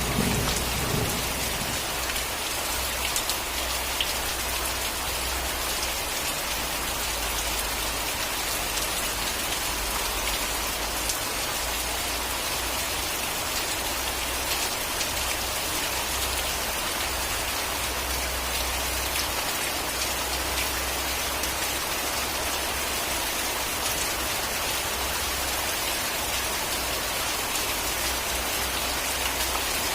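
Rain falling steadily on a surface, an even hiss of many drops. A thunder rumble dies away in the first second or two.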